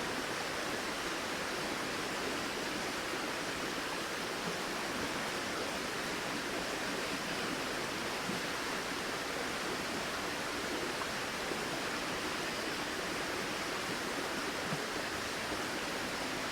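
A flowing river rushing steadily.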